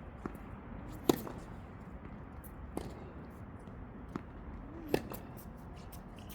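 Tennis balls struck by rackets in a rally drill: sharp pops about every two seconds, the loudest just over a second in, with smaller knocks of bounces between them.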